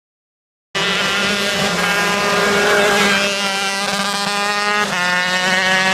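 An engine running at a steady, high speed, cutting in suddenly out of silence about a second in and holding a nearly constant pitch, with a slight shift near the end.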